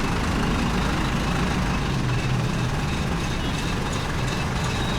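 A large engine running with a steady low rumble.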